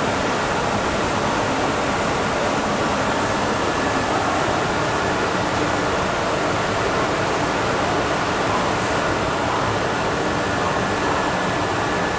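MTR engineering train with diesel-electric locomotives moving slowly along an underground station platform: a steady, even rumbling noise with a low engine drone underneath.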